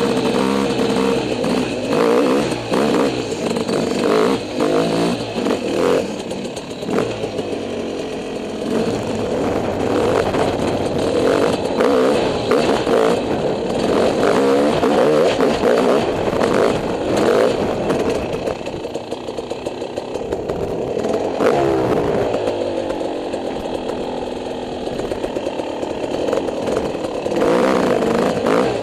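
Dirt bike engine revving up and down over and over as it is ridden, with frequent short knocks and rattles. The engine eases off briefly about two-thirds of the way through, then picks up again.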